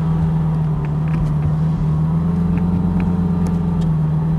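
Lamborghini Gallardo's V10 engine idling, a steady drone heard inside the cabin, with a few faint clicks.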